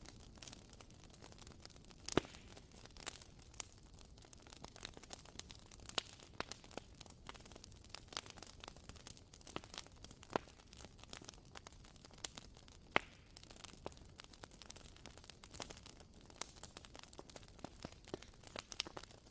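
Wooden-wick candle crackling like a small campfire: irregular sharp pops and ticks over a faint hiss, with a louder pop about two seconds in and another about two-thirds of the way through.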